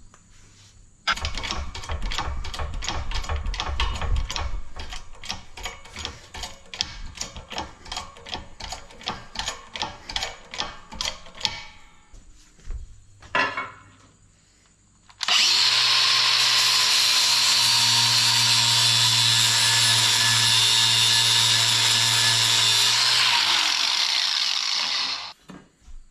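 Power drill working plate steel: first about ten seconds of fast, evenly spaced rattling strokes that fade, then the drill runs loud and steady for about ten seconds before stopping near the end.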